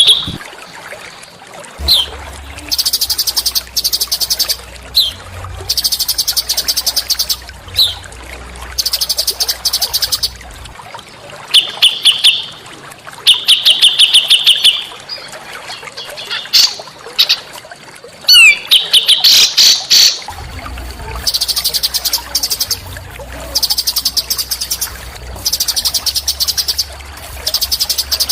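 A small songbird singing a series of rapid, high, buzzy trills, each about a second long with short gaps, and a few short sharp notes in between.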